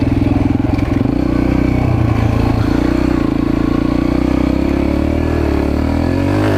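Mini bike's small engine running hard under load while climbing a steep hill. The pitch holds fairly steady, dips slightly about two and a half seconds in, and rises near the end.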